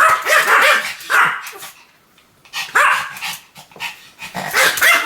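Pomeranian barking in rapid runs of short, high-pitched barks. There is a pause of about half a second in the middle, and the barking comes faster again near the end.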